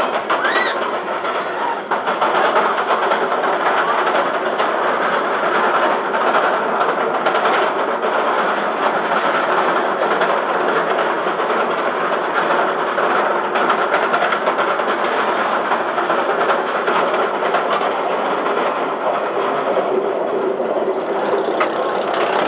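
Roller coaster train running along its steel track, a loud steady rumble of wheels on rail.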